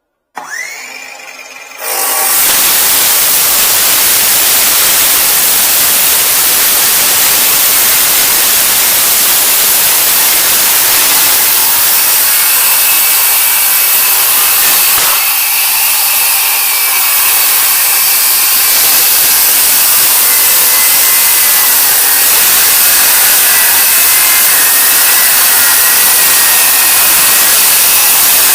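A power tool's motor spins up with a rising whine, then runs continuously at full speed under load, like a tool cutting.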